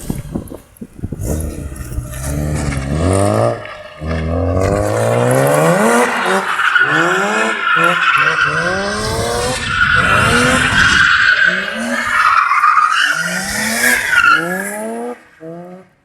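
BMW E30's swapped-in S50B30 straight-six revving hard, its pitch rising and falling again and again in quick surges, with tyres squealing through most of it. The noise cuts off sharply near the end.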